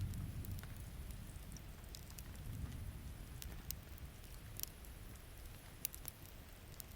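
Steady rain with sharp crackles and pops from a wood campfire, and a low rumble at the start and again about two and a half seconds in.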